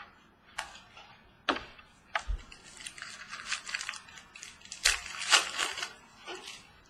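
Trading cards and pack wrappers being handled: a few sharp clicks and snaps, then crinkling and rustling that is loudest about five seconds in.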